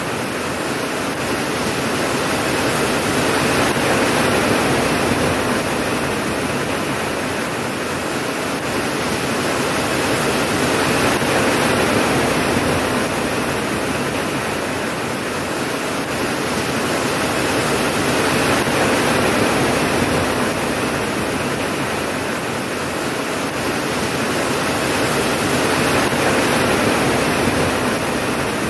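Heavy rain falling in a steady hiss that swells and eases slowly, about every seven or eight seconds; no thunder.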